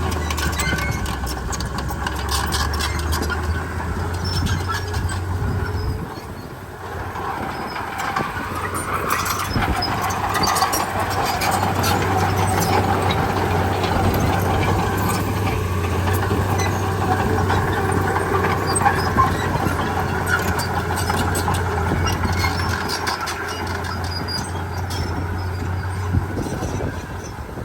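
Komatsu D31P bulldozer's diesel engine running steadily under load, with many small clanks and clicks from its steel tracks. The engine eases off briefly about six seconds in, then picks up again.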